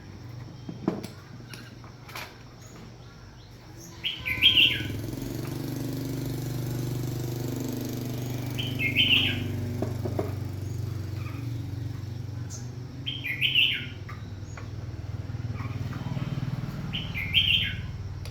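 A bird chirping in short bursts about every four seconds over a steady low hum that starts about four seconds in, with a few sharp knocks near the start.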